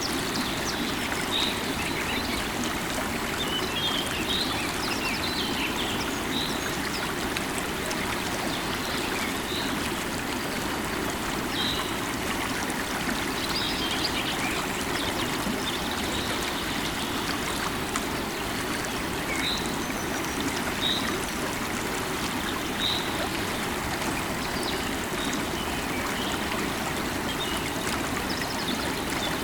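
River water running steadily, with a bird giving short, high chirps every second or two.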